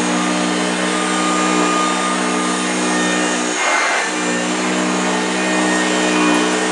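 1965 Hoover Junior 1334A upright vacuum cleaner running over carpet, a steady motor hum under a loud rushing hiss. The hum breaks off briefly about three and a half seconds in, then comes back at the same pitch.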